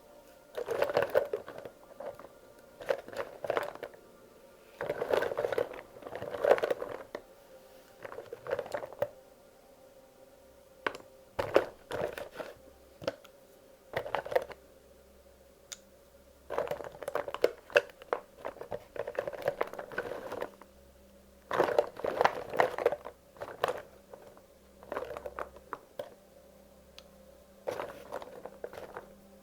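Wax crayons clicking and rattling against one another in short clusters as they are handled and sorted by hand, with brief pauses between handfuls.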